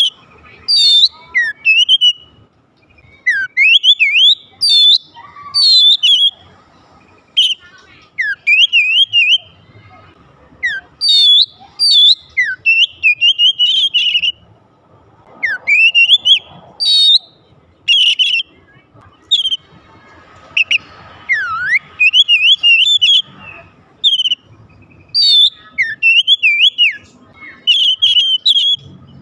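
Oriental magpie-robin (kacer) in full song: loud, varied whistled phrases of quick rising and falling notes, delivered in short bursts with brief pauses between them.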